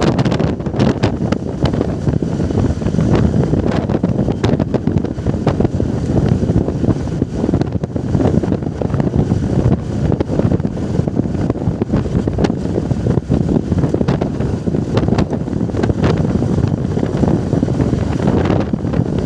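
Wind buffeting the microphone of a rider on a moving motorcycle: a loud, steady low rumble with many small crackles.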